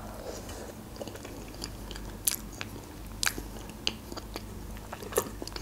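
A person chewing a mouthful of meringue roll with cream, with soft wet mouth sounds and a few sharp clicks scattered through.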